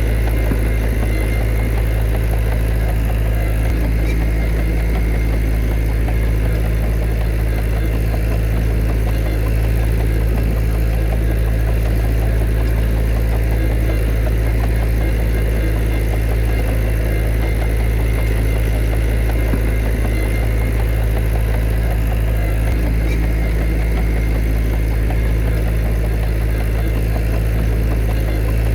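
Heavy diesel engine of earthmoving machinery running steadily at an even, low drone, with no change in revs.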